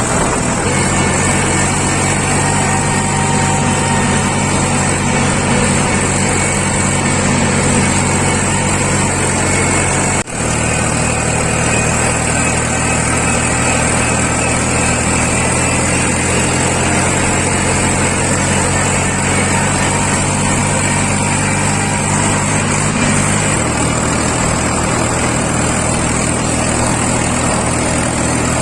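Heavy diesel machinery engine running steadily, with a short break about ten seconds in.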